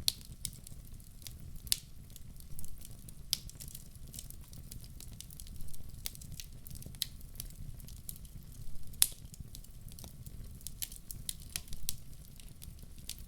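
Wood fire burning in a fireplace: irregular sharp crackles and pops over a steady low rumble of the flames, with one louder pop about nine seconds in.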